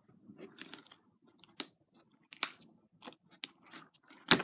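Sticky liquid-starch slime being squeezed and pulled apart in the hands, giving irregular wet clicks and pops with softer crackling between; it is still sticking to the skin.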